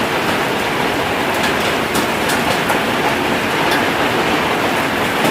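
Heavy rain driven by strong wind in a hailstorm, a loud steady roar with scattered sharp ticks.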